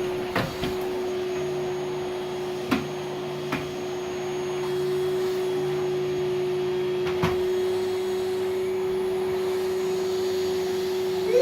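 Household vacuum cleaner running steadily with a constant hum, with a few brief knocks as it is moved about the floor.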